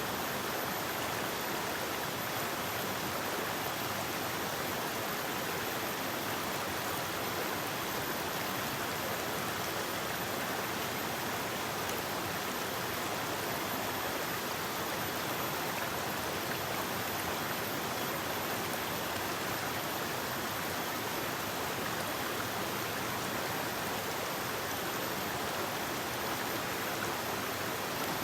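River water flowing: a steady, even rush of running water with no change.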